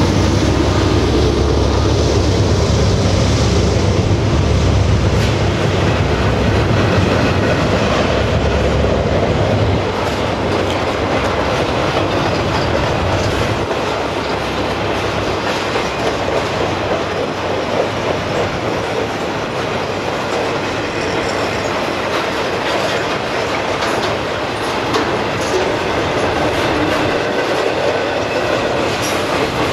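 Norfolk Southern mixed freight train's cars rolling past, steel wheels clicking over the rail joints. A deep rumble from the locomotives just ahead drops away about ten seconds in, leaving the steady clatter of the cars.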